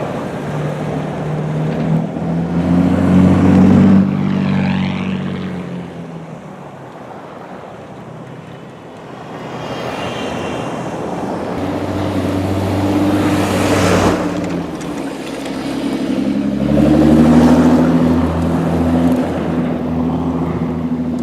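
Motor vehicle engine hum at a steady pitch over a constant hiss of road and wind noise; the hum grows loud, fades out for several seconds, then returns about halfway through.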